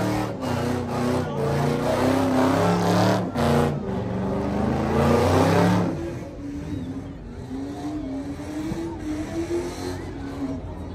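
A car's engine revving loudly, its pitch stepping up and down, for about six seconds. It then drops to a quieter running note that slowly rises and falls.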